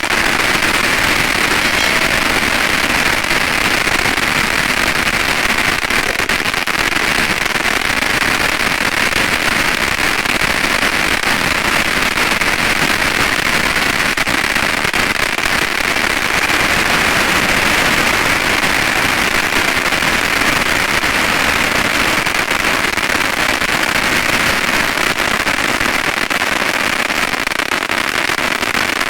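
Oversized crackling firework fountain (Pyro Planet's White Noise) firing a dense, continuous wall of crackle, steady and loud, like a long string of firecrackers.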